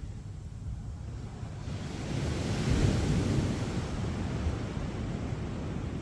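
Sea waves on a beach: a wave breaks about two seconds in, its rushing hiss swelling to a peak around a second later and then slowly fading as it washes out. Under it runs a steady low rumble of surf.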